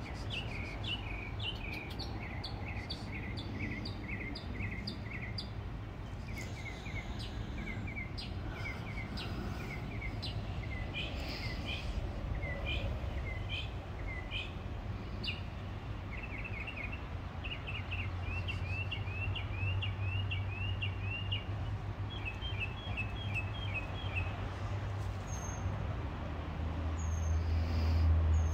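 Birds chirping: runs of quick, high, repeated chirp notes, some in fast trills, with a low steady rumble that swells near the end.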